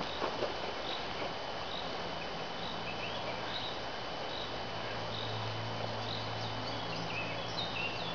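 Woodland ambience: a steady hiss with a small bird's short high chirp repeating about every half second. A low steady hum joins about two seconds in.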